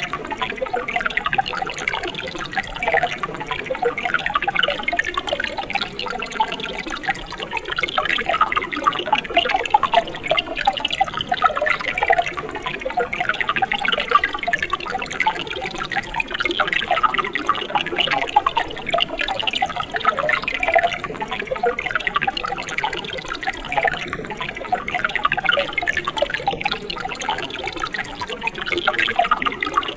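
Mountain stream water flowing and splashing over rocks in a steady, continuous bubbling babble.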